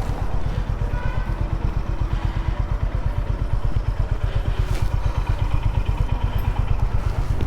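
Motorcycle engine idling with an even, rapid low thumping.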